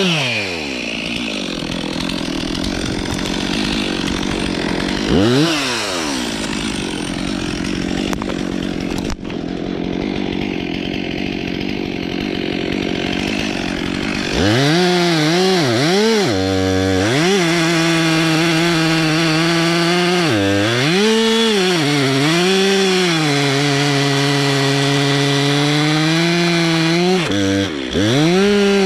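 Stihl MS 362 C two-stroke chainsaw cutting through birch wood under load for about the first half, its engine note pulled down in the cut. From about halfway the saw runs free: the engine revs up and down and holds at high speed between cuts, dropping briefly near the end.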